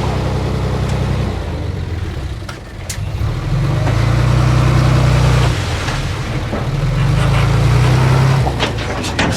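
Diesel engine of construction machinery running, its revs swelling twice under load, about three and a half seconds in and again about seven seconds in, with a few sharp clanks near the end.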